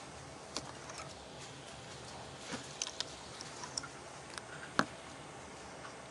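Steady running noise inside a moving train carriage, with scattered light clicks and ticks, the sharpest a little under five seconds in.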